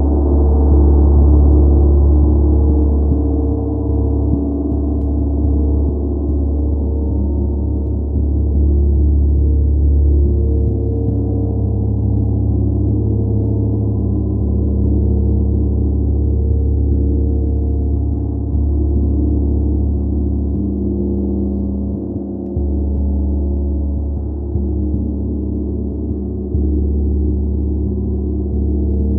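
A gong played continuously as a sustained, swelling wash of many overlapping ringing tones, deepest and strongest in the low end.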